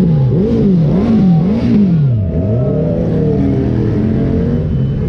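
Sports car engine revved in several quick blips, about two a second, its pitch rising and falling each time. It then drops back and runs on steadily at a low pitch.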